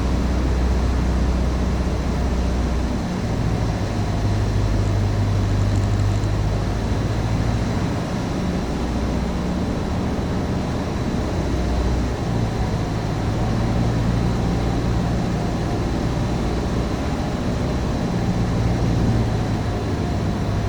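Cessna 150's four-cylinder Continental O-200 engine and propeller droning steadily in the cockpit on final approach. Its low hum steps up and down in pitch a few times.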